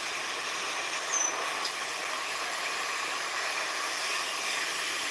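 Steady hissing nature ambience from a sea-and-forest soundscape, with one brief high chirp about a second in.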